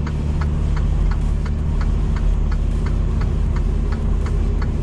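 Semi-truck diesel engine running with a steady low hum heard from inside the cab, over the indicator clicking in a regular rhythm about three times a second.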